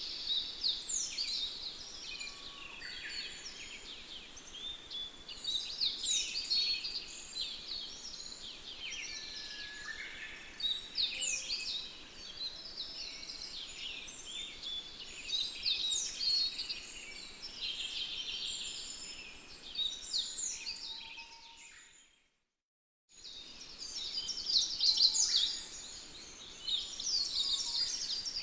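A chorus of many birds singing, with dense overlapping chirps and trills. It fades out to dead silence about 22 seconds in and comes back a second later.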